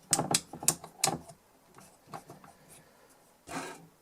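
Rapid clicking of a small switch on a DI box being worked back and forth after a shot of contact cleaner, fading to a few faint ticks, with a short hiss near the end.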